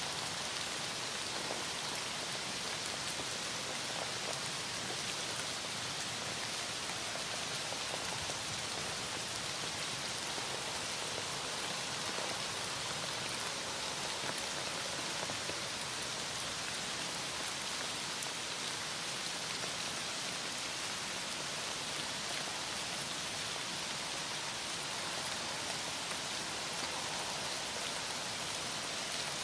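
Heavy rain falling steadily, an even patter of drops with no break.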